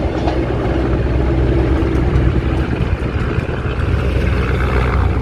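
Steady, loud rumble of a passing passenger train.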